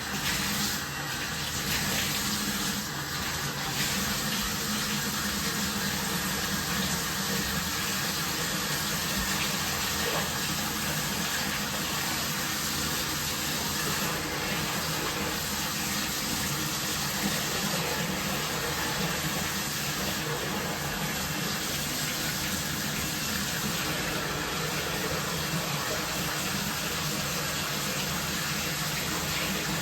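Water running steadily from a bathtub tap.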